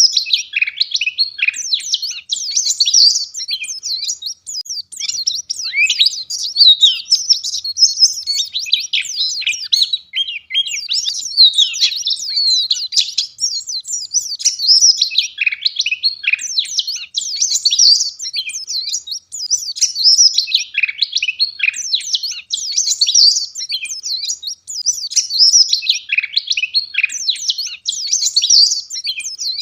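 White-eye (pleci) singing hard: a dense, almost unbroken stream of fast, high chirps and trills.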